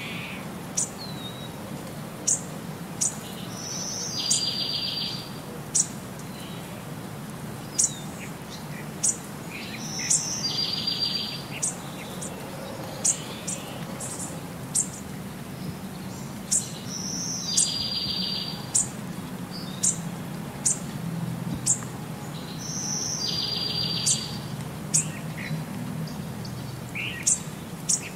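Small birds chirping: short high chirps about once a second, with a longer buzzy trill every six or seven seconds, in an even repeating pattern that runs on unchanged across the picture cuts, like a looped birdsong background track.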